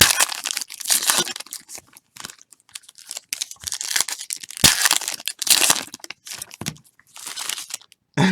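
Plastic wrapping of a trading-card pack or box being torn open and crinkled by hand, irregular rustling and crackling.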